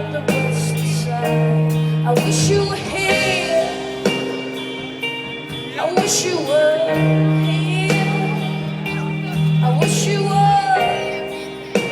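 Live rock band music played through a concert PA, with held notes and a steady bass line, and a voice singing a few drawn-out notes.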